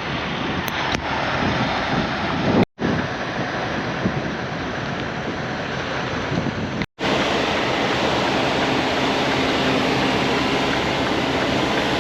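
Steady rush of wind and rain buffeting the microphone in a storm, cutting out abruptly twice, about three and seven seconds in.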